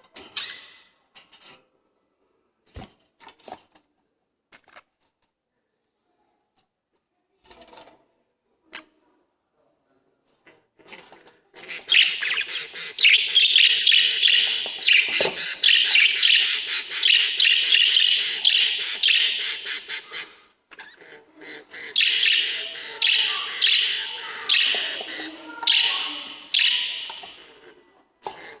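Lovebirds chattering in rapid, high, shrill chirps, in two long bouts in the second half, after a stretch of only scattered single chirps and clicks.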